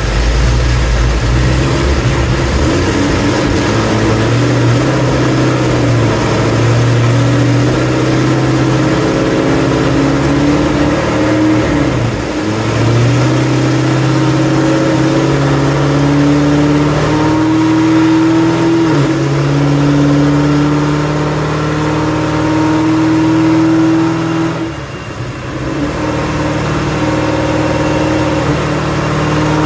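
Car engine under a long load run on a chassis dyno, its pitch climbing slowly through the revs. It falls back sharply about twelve seconds in, as at a gear change, and again with a brief drop in loudness about twenty-five seconds in, then climbs once more.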